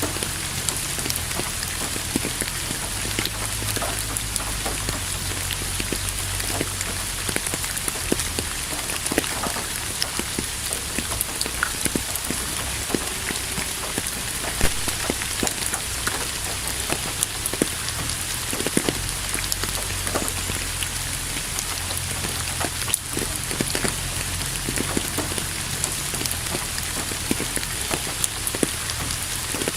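Steady rain falling, with many individual drops tapping close by over an even hiss and a low rumble underneath.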